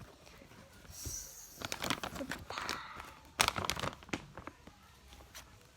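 Plastic crinkling and rustling with a few light knocks and clicks, as objects are handled.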